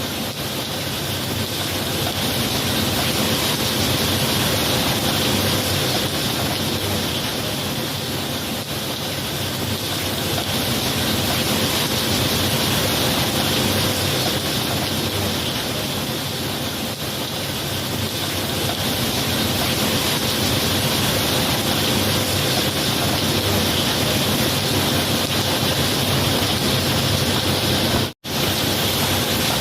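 Steady heavy rain, a dense even hiss that slowly swells and eases, cutting out for an instant near the end.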